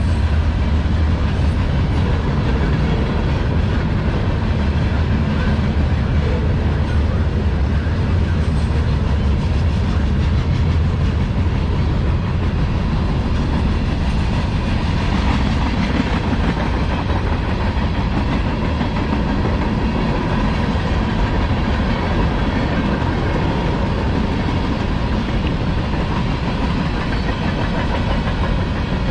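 A long freight train's cars rolling steadily past, with a continuous rumble of steel wheels on the rails.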